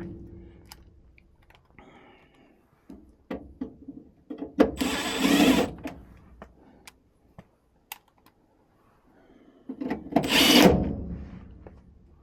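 Tool and hand work inside a furnace cabinet while the blower speed is being changed: scattered clicks and knocks, with two bursts of scraping or tool noise about a second long each, about five and ten and a half seconds in.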